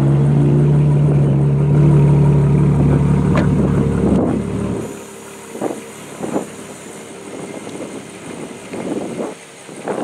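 Ferrari Monza SP's V12 engine idling steadily, then stopping abruptly about five seconds in. After that comes wind on the microphone with a couple of light knocks.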